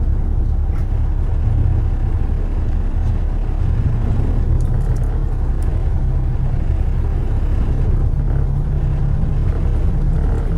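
Car driving on city streets: a steady low rumble of engine and road noise.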